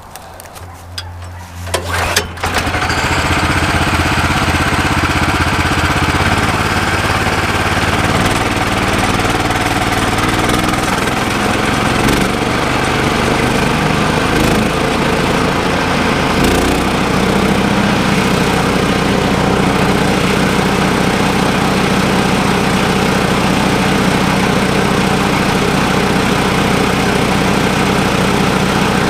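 Yardbeast 2090 wood chipper/shredder running loud and steady on its gas engine, the level jumping up about two seconds in. A few brief knocks come near the middle as cardboard goes into the shredder.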